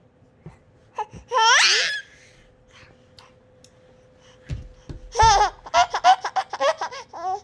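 A baby lets out one high squeal, then after a pause laughs in a quick run of about eight short, high-pitched giggles. Low thumps come just before the giggling.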